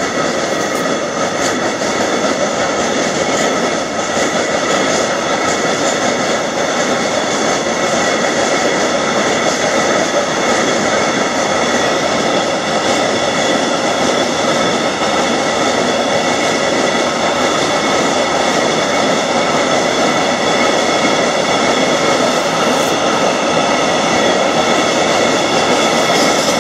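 Freight train passing: a loud, steady rumble of the wagons on the rails, with several steady high ringing tones held over it the whole time.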